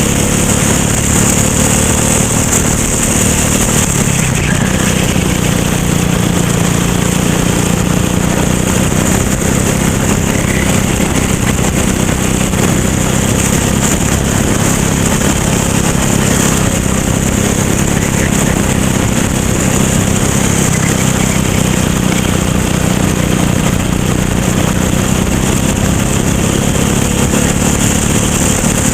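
Racing kart engine running hard at speed, a steady loud drone with small rises and falls in pitch.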